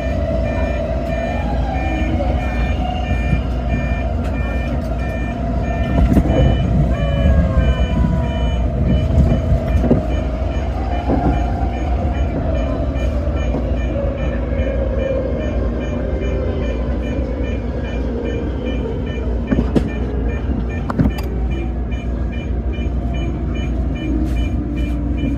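A Toyo Rapid Railway electric train running, heard from inside the front car: low rumble with a motor whine that slowly drops in pitch in the second half, and a few sharp clacks from the track. A faint high beeping repeats evenly in the background.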